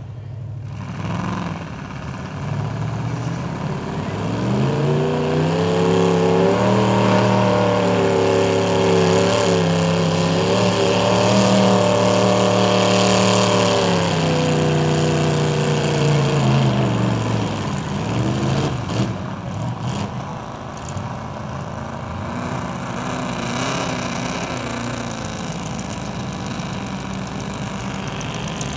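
Mud-bog truck engine revved hard: the pitch climbs about four seconds in, holds high for about ten seconds, then drops back to a lower, steady run.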